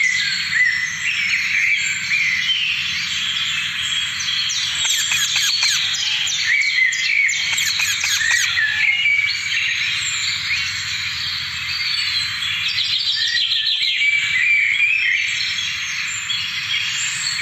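A flock of parrots chirping and chattering, many short calls overlapping at once, with a faint steady low hum beneath.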